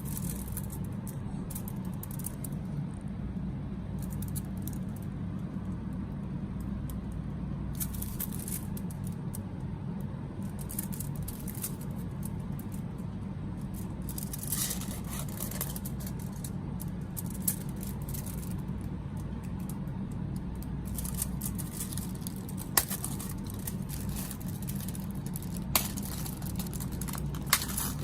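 Snack packaging being handled: intermittent plastic crinkling and a few sharp clicks and small knocks, over a steady low hum.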